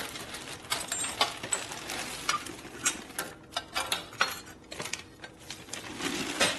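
Loose steel bolts, nuts and washers clinking and rattling as they are gathered up by hand and tossed into a bag, in irregular clusters of small metallic clicks.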